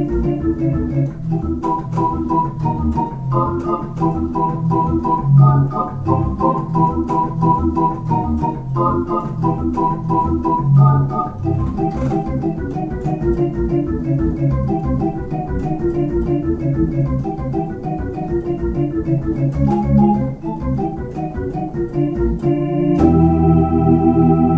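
Organ playing a fast piece of many short notes in several voices, moving into a long held chord near the end.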